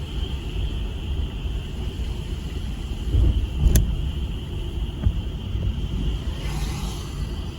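Frog chorus as a steady, high, unbroken trill under a louder low rumble; a sharp click a little after the middle and a brief hiss near the end.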